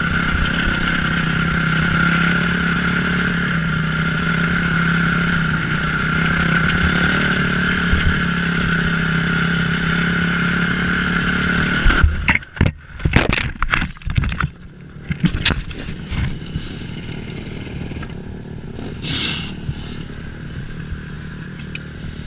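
Motocross motorcycle engine running at a steady pitch for about twelve seconds, then a sudden break into a jumble of knocks, scrapes and rattles that settles into quieter, uneven rustling.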